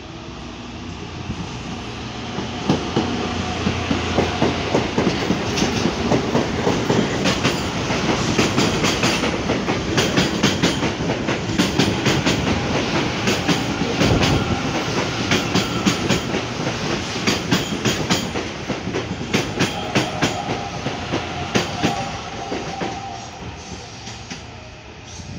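CPTM electric commuter train passing close by, its wheels clacking rapidly over rail joints and switches over a steady rumble. The sound builds as the train draws alongside, stays loud through the middle and fades as it runs off.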